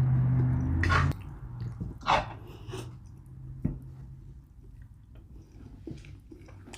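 Chewing and wet lip-smacking of someone eating enchilada casserole close to the microphone, with several sharp smacks. It opens with a loud low hum lasting about a second.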